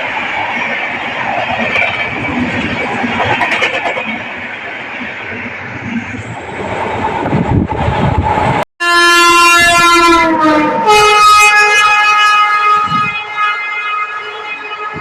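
An electric locomotive-hauled express train rushes past at speed, then after a short break an electric locomotive's horn blows loud and long, its pitch dropping partway through as it passes.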